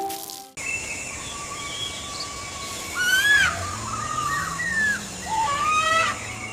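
Chirping, whistling calls that glide up and down in pitch, several in a few seconds, over a steady background ambience; the loudest come about three seconds in and again near the end.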